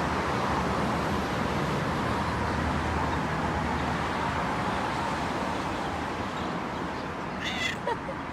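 Steady outdoor background noise, with one short, high-pitched animal call near the end.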